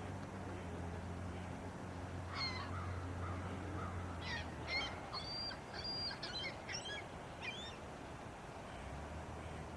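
A bird giving a quick series of short, sharp chirps and brief whistled notes over a few seconds, starting about two seconds in. A steady low hum lies under it, stops about halfway through and comes back near the end.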